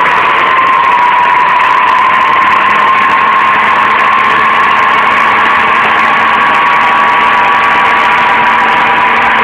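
The GAZ-40P inline-six petrol engine of a BTR-60PA armoured personnel carrier running steadily just after being started, with a constant whine riding over the engine noise.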